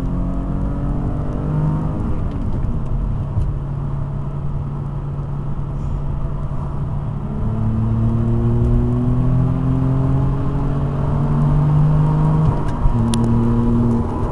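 Audi A5's 3.2-litre V6 through a Milltek catback exhaust, heard from inside the cabin with the windows up, accelerating hard. The note climbs with revs, drops at an upshift about two seconds in, then climbs again and drops at another shift near the end.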